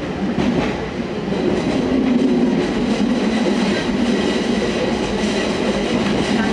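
Fukui Railway train running at speed, heard from inside the car: a steady rumble of wheels on the track that grows louder over the first two seconds, with a few faint rail clicks early on and a faint steady high whine.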